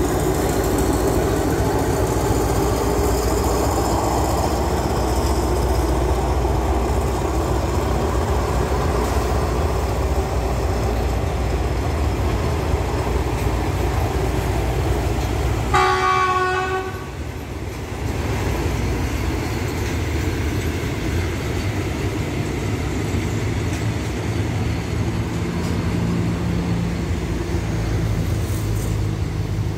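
Diesel locomotive and train running past on the tracks, a steady heavy rumble, with a single horn blast about halfway through that lasts about a second.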